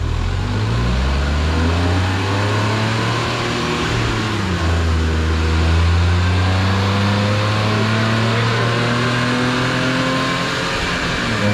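Smart car's small three-cylinder engine revving under load on a chassis dyno: its pitch climbs, drops at a gear change about four seconds in, then climbs again more slowly before falling off near the end.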